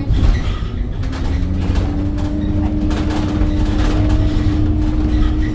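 Scania K270UB city bus on the move, heard on board: the five-cylinder diesel's low rumble with a steady whine that dips right at the start and then climbs slowly as it gathers speed, and rattling through the middle.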